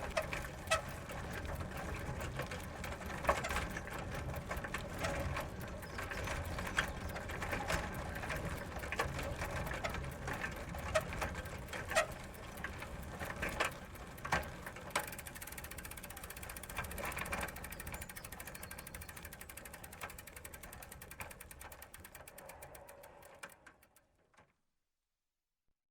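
Bicycle ridden slowly on gravel: the tyres crunch over the stones with a steady low rumble and scattered sharp clicks. About two-thirds of the way in, a fast, even ticking of the rear freewheel ratchet sets in as the bike coasts. Then the sound fades out to silence near the end.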